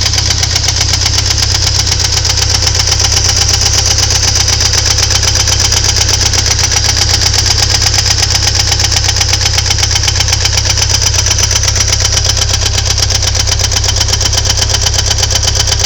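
Ford Thunderbird Turbo Coupe's 2.3 L turbocharged four-cylinder engine running at a steady speed, with a rapid, even knocking in time with the engine, which the owner suspects comes from a valve.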